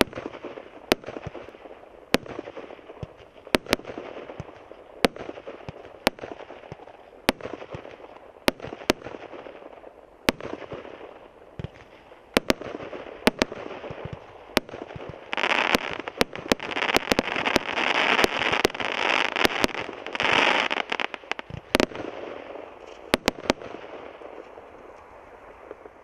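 SU-09 "Drakonchik" consumer fireworks cake (20 mm calibre, 36 shots) firing shot after shot, a sharp bang about once a second. About two-thirds through comes a dense run of rapid pops, then a few last bangs before it dies away.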